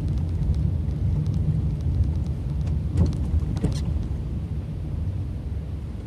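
Road and engine noise heard inside a moving car's cabin: a steady low rumble, with a couple of small knocks about halfway through.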